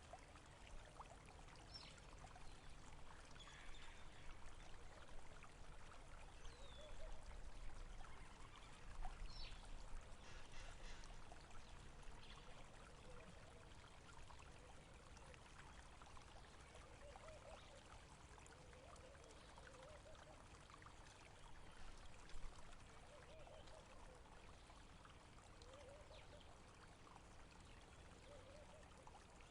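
Small stream trickling and gurgling, faint and steady. A few short, high chirps come in the first ten seconds.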